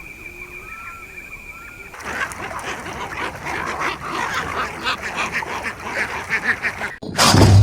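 A flock of ducks quacking, a busy run of overlapping calls starting suddenly about two seconds in. Before it, a steady high buzz with short repeated chirps, and near the end a sudden switch to a louder, deeper sound.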